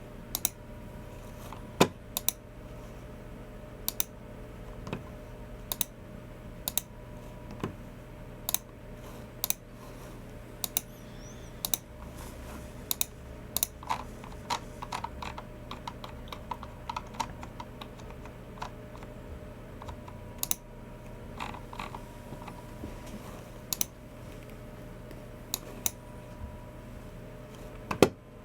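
Typing on a Logicool MX Keys Mini low-profile keyboard: scattered single keystrokes with pauses between them, and a quicker run of keys around the middle. A faint steady hum sits under it.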